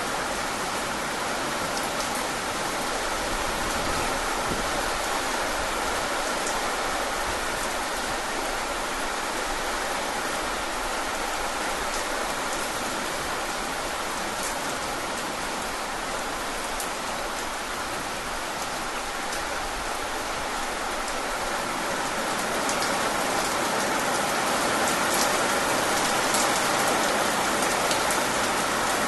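Steady rain falling, an even hiss with scattered individual drops ticking, growing a little louder over the last few seconds.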